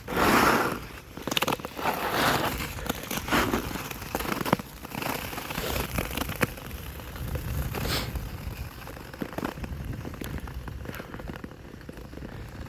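Repeated crunching, scraping strokes on a sheet of ice, about one every second or so, with a few sharp crackles.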